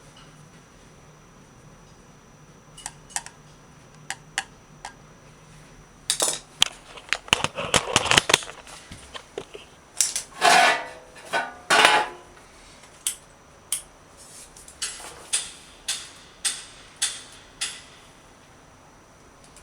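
Clicks and clattering of small hard parts and tools being handled. Single sharp clicks at first, then a busy run of clatter with two rattling, scraping stretches midway, then a string of separate clicks.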